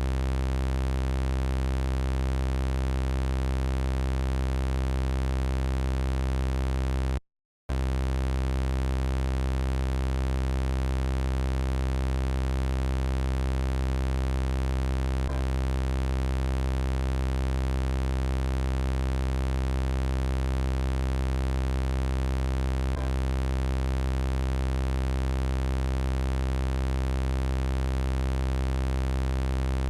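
Steady synthesized buzzing drone, an electronic robot-voice sound effect holding one low pitch with dense overtones. It cuts out for a split second about seven seconds in, and faint clicks sound twice later on.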